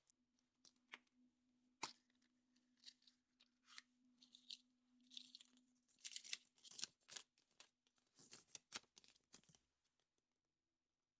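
Faint crinkling and tearing of a chocolate surprise egg's foil wrapper being unwrapped by hand, with scattered sharp clicks of handling, over a faint steady low hum.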